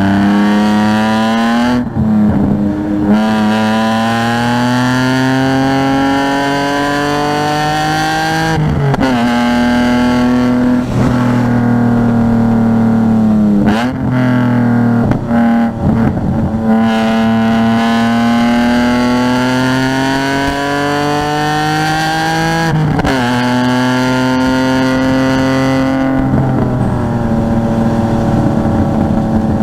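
Car engine heard onboard at a race circuit, accelerating hard with rising revs. It drops sharply in pitch at gear changes and in several braking zones with quick downshifts, then pulls up through the gears again, about four times in all.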